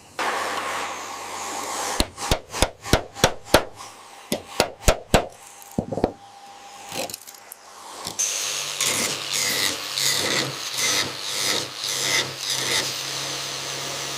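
Tools at work: a quick string of sharp knocks, then a steady motor hum with repeated scraping strokes about twice a second.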